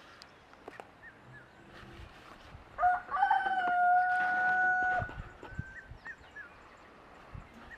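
A rooster crowing once, about three seconds in, ending on a long held note of about two seconds. Small bird chirps are heard around it.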